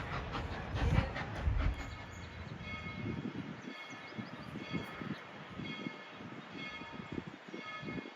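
Steam locomotive's bell ringing steadily, a stroke about every two-thirds of a second, starting about two seconds in after a loud low rumble from the train.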